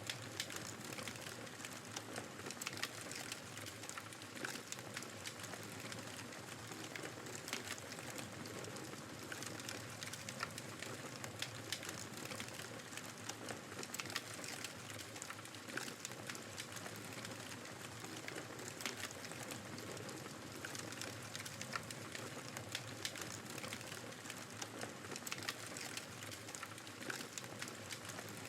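Wood fire crackling, with frequent sharp pops and snaps over a steady hiss of blizzard wind.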